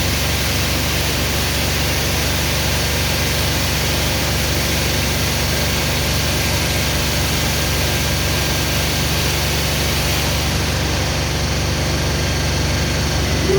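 Car Beautician BMC Royal Waxer car wash running: a steady rush of water spray and machinery over a constant low motor hum.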